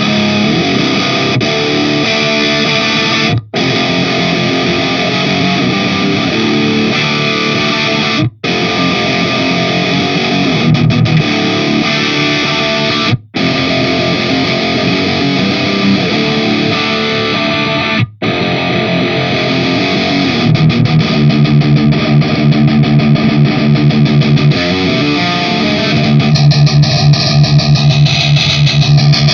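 Heavily distorted electric guitar riff played through an Orange-style amp simulator and a speaker-cabinet impulse-response loader, looping with a brief gap about every five seconds. In the last third the riff turns to fast, evenly spaced low chugs.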